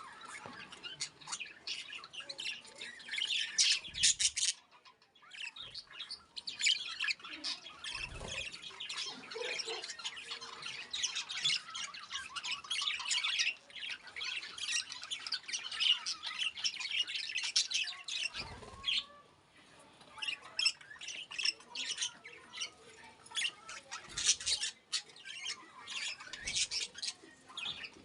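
Pet lovebirds chattering with rapid, high squawks and chirps, broken by two brief lulls.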